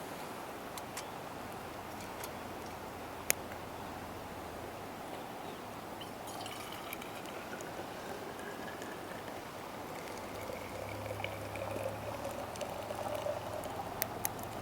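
Liquid being poured into a container, its pitch rising steadily as it fills through the second half, over a steady hiss with a few sharp clicks, the loudest about three seconds in.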